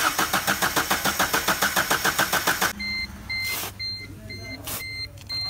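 Maruti Suzuki Ritz engine cranked on the starter motor: a fast, even churning pulse for about two and a half seconds, then the cranking stops. This is the car's hard-starting complaint. A repeating high beep and a couple of knocks follow.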